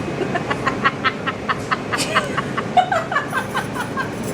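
A person laughing in quick breathy bursts, about five a second, turning into higher-pitched giggles in the second half, over the steady rumble of a moving train carriage.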